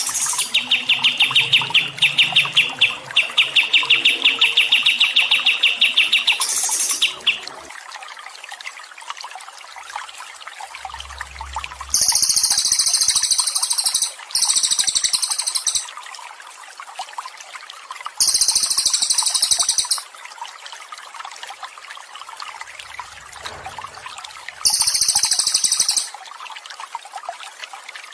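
Songbird calls over a steady trickle of running water: a rapid trill for the first six seconds or so, then four short, very high, buzzy bursts of fast chips later on.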